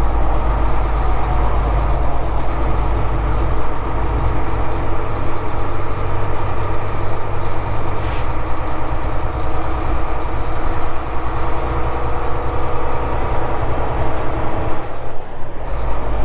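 Volvo 780 semi truck's diesel engine running steadily at low speed, heard from inside the cab. A short air hiss comes about eight seconds in, and the engine note dips briefly near the end.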